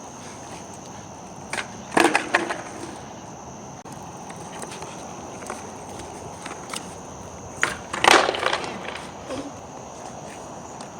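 Skateboard popped and clattering onto pavement twice, a sharp click followed by a burst of rattling impacts about two seconds in and again about eight seconds in: attempts at a fakie backside flip.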